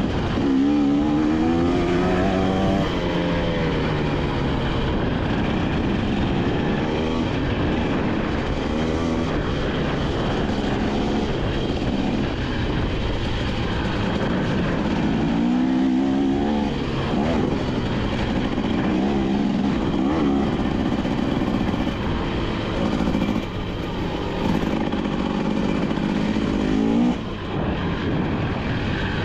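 KTM 250XC-W single-cylinder two-stroke dirt bike engine being ridden, its pitch rising and falling repeatedly with the throttle over a steady rushing noise.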